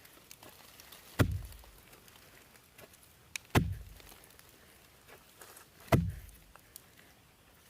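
Three heavy blows struck on wood at an even pace, about two and a half seconds apart, each a sharp knock with a dull thud that dies away quickly.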